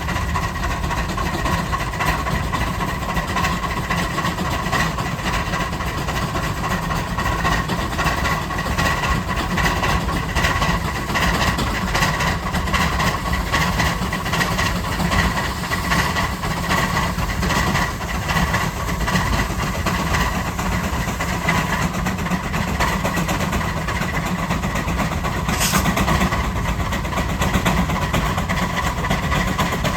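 Antique steam traction engine working a plough, a steady running sound with fine rapid pulsing and a faint steady tone over it.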